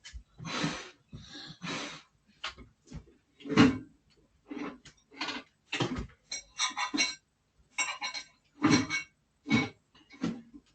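Irregular knocks, bangs and ringing metallic clinks, as of a microwave and dishes being clumsily handled, with the loudest bang about three and a half seconds in.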